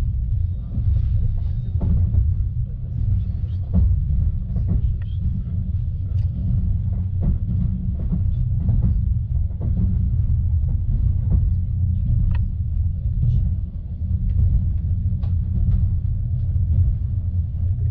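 Passenger train running at speed, heard from inside the carriage: a steady low rumble with irregular light clicks and knocks from the wheels and car body.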